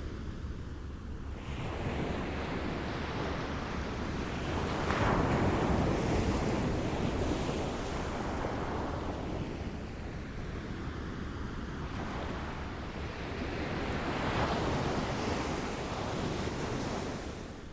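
Small waves lapping and washing on a shore. The wash swells twice, about five seconds in and again around fifteen seconds, over a steady low rumble.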